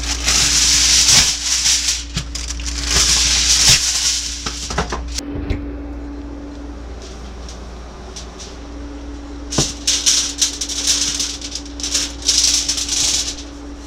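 Salt and pepper being shaken onto green beans: hissy, rattling shaker strokes in two spells, one at the start and one from about two-thirds of the way through, with a lull between.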